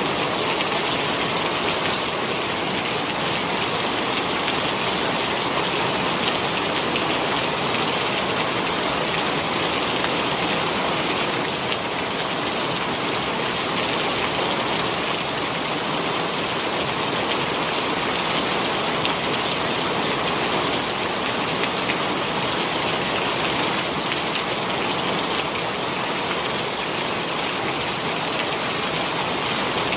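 Heavy rain pouring steadily, an even dense hiss of drops on the ground and surfaces.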